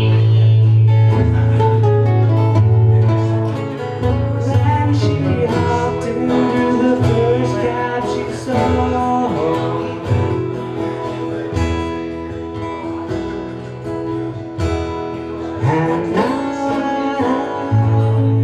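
Live song with acoustic guitar strummed and picked through an instrumental passage after the vocals stop.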